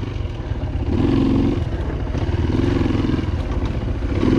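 Dirt bike engine running, pulsing steadily, with two brief surges about one and three seconds in.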